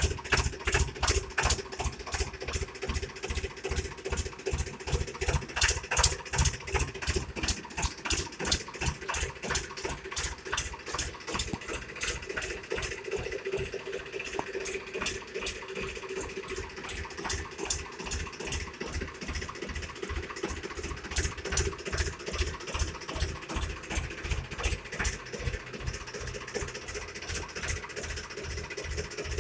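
Tractor diesel engine idling with an even, rapid knocking beat, a little louder in the first several seconds.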